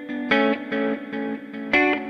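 Background music: an electric guitar with effects playing a repeating, evenly paced figure of plucked notes.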